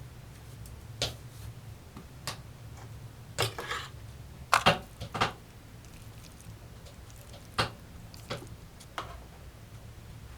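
Irregular short knocks and clicks of objects being handled in a small room, loudest in a quick cluster of three about halfway through, over a steady low hum.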